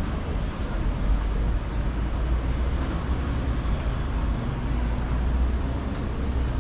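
Steady city street ambience: a continuous low rumble of road traffic under an even hiss, with a few faint clicks.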